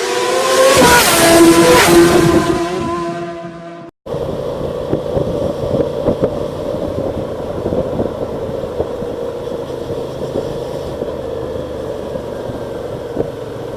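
Motorcycle engine accelerating, its pitch rising and growing loud. After an abrupt cut it runs steadily at a constant speed.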